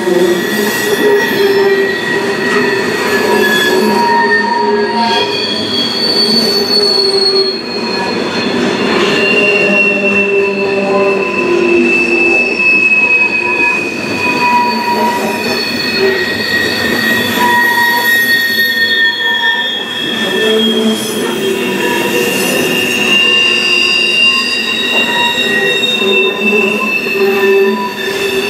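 Open-top hopper cars of a Norfolk Southern freight train rolling past, wheels squealing against the rails in several high, wavering tones that come and go over the steady rolling noise of the wheels on the track.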